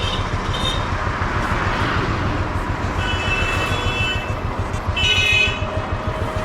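Busy road traffic: a steady low engine rumble with rapid pulsing, and vehicle horns honking, once about three seconds in and again around five seconds in.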